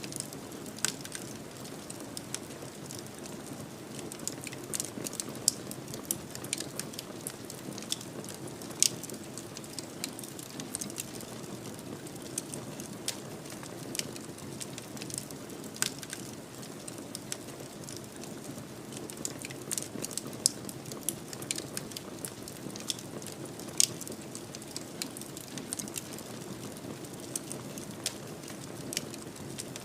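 Wood fire crackling in a fireplace: irregular sharp pops and snaps, a few of them louder, over a steady low rushing of the flames.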